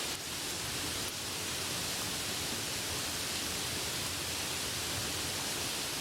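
Steady rain, an even hiss with no thunder, dipping slightly twice in the first second or so.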